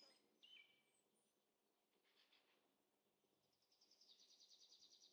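Near silence with faint birdsong: a short high chirp about half a second in, then a fast trill of high repeated notes near the end.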